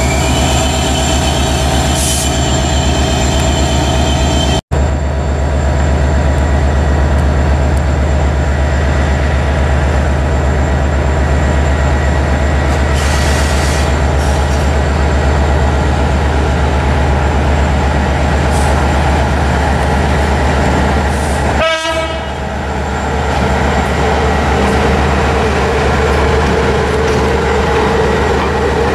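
Trains passing through a station: a class 614 diesel multiple unit rolls in with steady whining tones over a low drone, then, after a cut about five seconds in, an electric locomotive hauls passenger coaches slowly past with a continuous low hum. A wavering tone rises out of the hum near the end.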